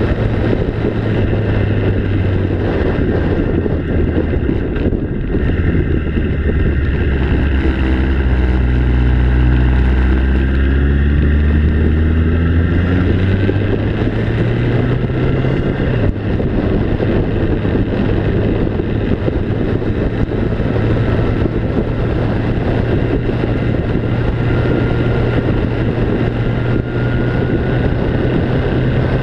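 A motor vehicle's engine running steadily under a heavy rush of wind and travel noise; about halfway through its pitch climbs and then drops suddenly.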